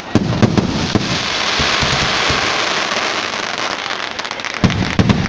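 Aerial fireworks going off: a sudden cluster of bangs right at the start, then a dense crackling hiss of bursting stars, with another cluster of bangs near the end.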